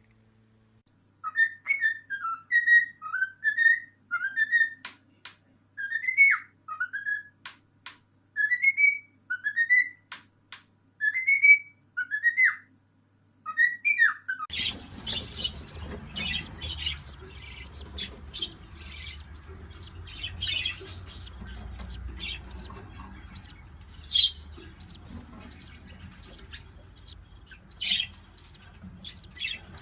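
A parrot whistling a rising-and-falling call over and over, with clicks between the calls. About halfway through, this gives way to short high chirps over a steady low background rumble.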